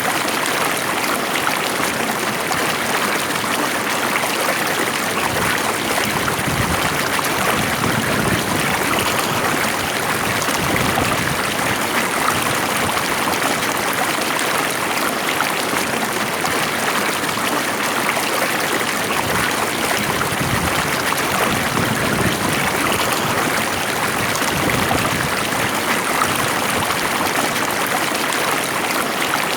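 Stream water flowing over rocks with a steady, even rush and trickle.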